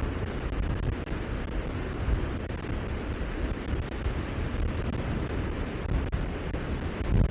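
Low rumbling wind noise buffeting the microphone, swelling in irregular gusts, strongest near the end.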